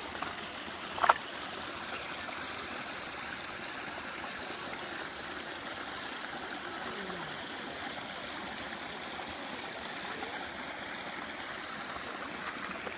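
Mountain stream of snowmelt water running in a steady rush. About a second in there is one brief, sharp high-pitched sound over it.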